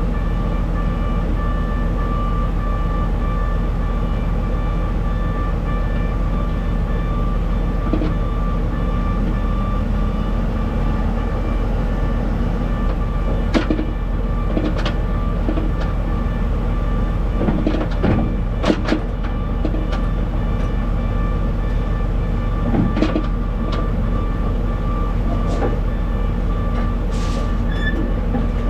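Steady rumble of a running heavy vehicle, with a low engine tone that rises about a third of the way in and scattered clicks and knocks through the middle.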